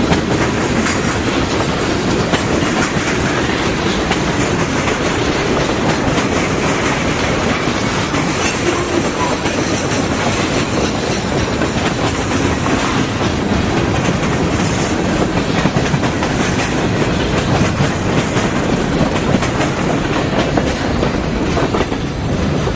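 Freight train cars rolling steadily past, wheels clicking over the rail joints.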